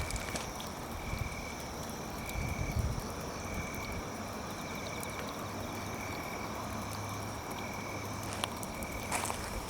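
A high, thin trill from a calling animal, repeating in short pieces about once a second over a steady hiss, with a low hum in the middle stretch and a few soft knocks.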